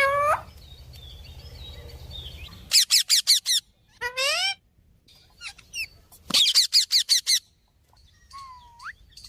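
Pet parrots calling: two runs of quick, harsh repeated squawks, a few single calls, and a short whistle that dips then rises near the end.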